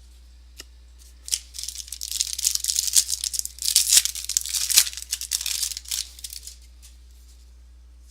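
Foil wrapper of a trading card pack being torn open and crinkled: a dense crackling rustle that starts about a second in and stops after about five and a half seconds, with a few sharp clicks.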